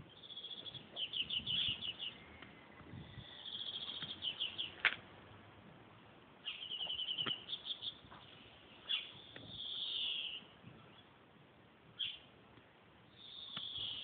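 Birds chirping, with quick trills of high notes in short bursts every few seconds and a few sharp clicks in between.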